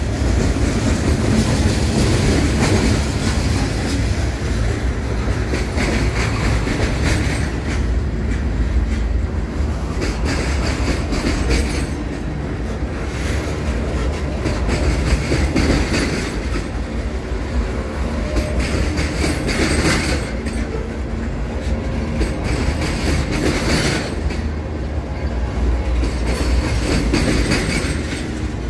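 Freight train tank cars and covered hoppers rolling past: a steady rumble with the clatter of steel wheels over the rail joints.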